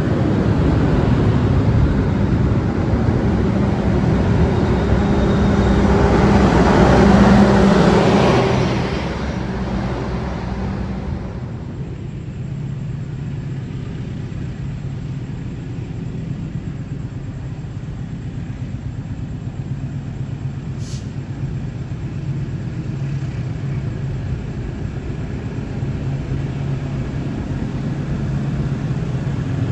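A train runs through the station, its rumble swelling to a peak about seven seconds in and fading away by about eleven seconds. After that a steady low hum, with a faint drone, carries on.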